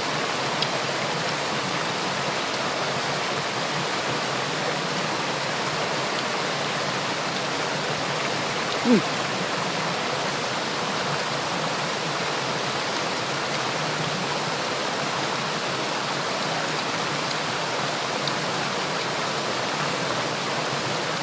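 Waterfall and stream water rushing steadily. A brief voice sound cuts in once, about nine seconds in.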